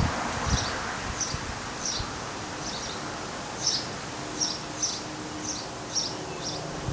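A small bird repeating a short high chirp, roughly two a second, over a steady outdoor background, with a few low thumps in the first two seconds.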